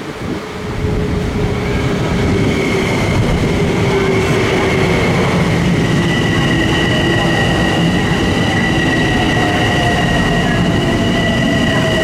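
Passenger train running through the station: a loud rumble that builds over the first two seconds and then holds steady, with steady high-pitched tones above it and lower tones that slowly fall in pitch.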